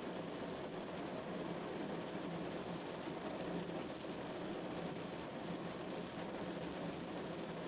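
Steady rain drumming on a car, an even patter with no breaks.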